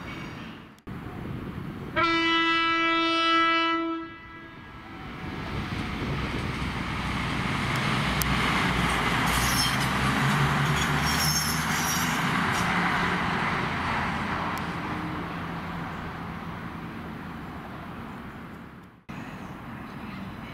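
A train horn sounds one steady note for about two seconds. A train then passes through the station, its noise building to a peak with a low engine hum and some high wheel scraping before fading away.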